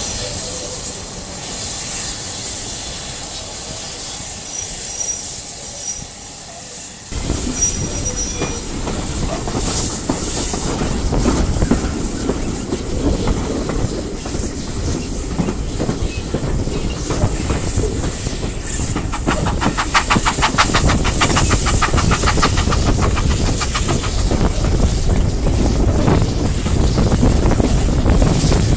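Heritage passenger train running on the rails, heard from the carriage window as it pulls away: fairly quiet at first, then from about seven seconds in a steady rumble of wheels and rushing air. A fast, even clatter runs for a few seconds about two-thirds of the way in.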